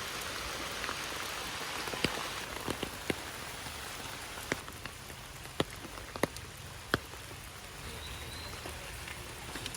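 Steady rain falling, with a few heavier drops landing close by as sharp taps scattered through it.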